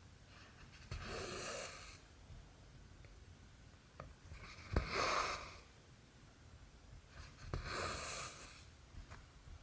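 Cotton thread being pulled through cross-stitch fabric, three swishes each about a second long, with sharp ticks of the needle just before the second and third.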